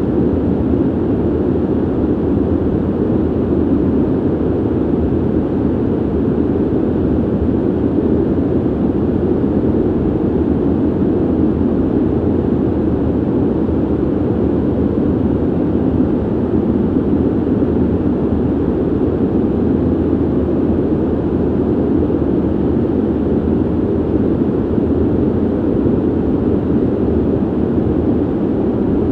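Ventilation noise: a steady, dull rushing of moving air, heavy in the low range and soft at the top, unchanging throughout.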